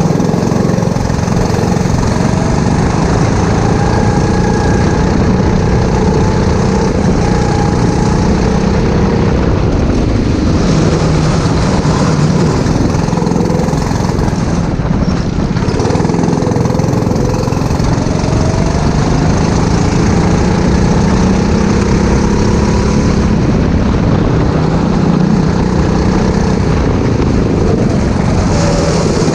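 Four-stroke go-kart engine running hard, its pitch rising and falling again and again as the kart accelerates and lifts through the corners.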